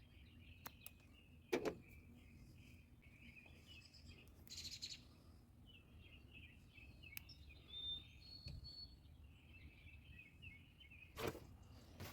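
Quiet outdoor background with faint bird chirping, broken by a few sharp clicks or knocks, the loudest about a second and a half in and again near the end, and a brief hiss about five seconds in.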